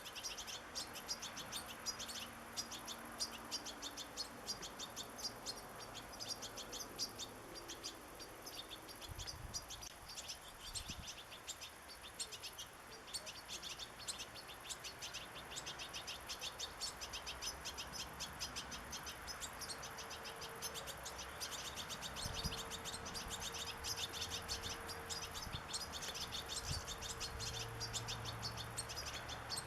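European goldfinch singing: a rapid, unbroken twittering of high chirps, many per second.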